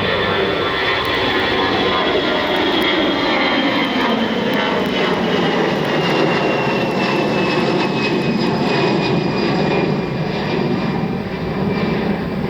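Jet airliner engines at takeoff power as the plane rolls or climbs past: a loud, steady rush with a high whine that slides steadily down in pitch as it goes by.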